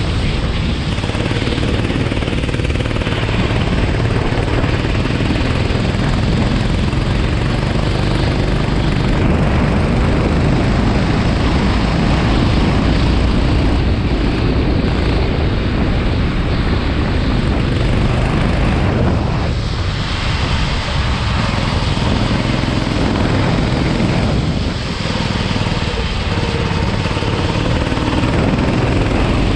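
Racing kart engine running hard on track, mixed with heavy wind rush on the microphone. The engine note drops briefly twice, about two-thirds of the way through and again a few seconds later, as the kart slows for corners.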